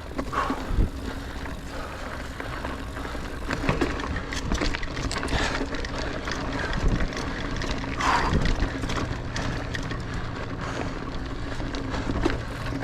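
Niner Air 9 RDO 29er mountain bike ridden over rough singletrack: tyres rolling on dirt, with frequent rattles and knocks as it goes over bumps.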